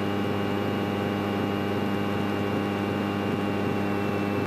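Single-engine Grumman light airplane's piston engine running steadily at low taxi power: an even drone that holds one pitch throughout.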